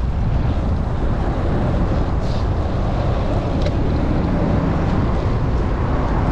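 Strong gusty wind buffeting the microphone of a chest-mounted camera on a moving bicycle: a loud, steady, low rumble.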